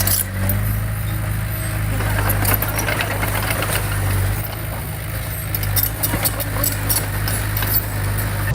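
Heavy-equipment diesel engine running steadily, with repeated metallic clanks and knocks over the low drone.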